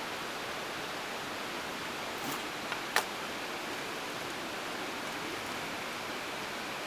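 Steady, even rushing of water, with a light tick and then a sharper click about two and three seconds in.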